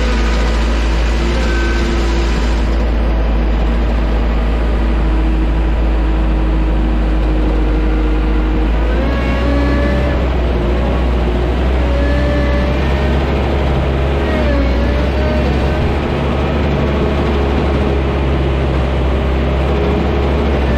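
Engines of airport ground-handling vehicles running over a loud, steady low rumble, their tones shifting in pitch about nine seconds in.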